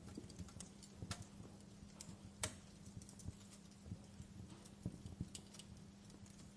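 Wood fire crackling in a fireplace: irregular small pops and snaps, with one sharper pop about two and a half seconds in.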